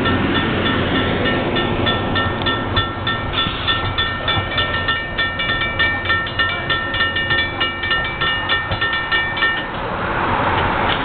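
Metro-North passenger train rolling into the station: steel wheels clicking rapidly over the rail joints under a steady high squeal. The clicking stops near the end, leaving a hiss.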